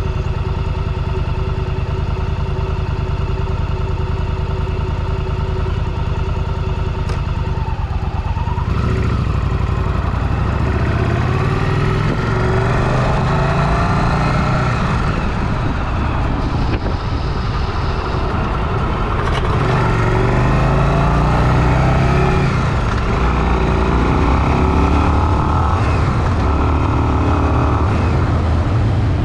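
Motorcycle engine idling steadily, then about eight seconds in pulling away and accelerating, its pitch rising and dropping back several times as it runs up through the gears.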